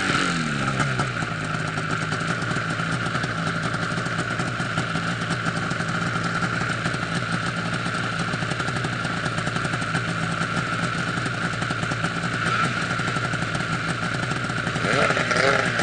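Arctic Cat snowmobile engine idling steadily. A rev dies away in pitch in the first second, and about fifteen seconds in it is blipped up and falls back again.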